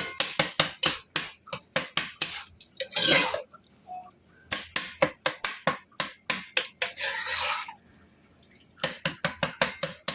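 A cooking utensil stirring food and striking cookware in quick repeated clicks, several a second, with two longer scraping sounds about three and seven seconds in.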